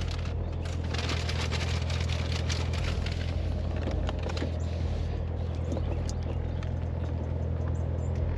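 Corvette Z06 V8 idling steadily, heard from inside the cabin as an even low rumble.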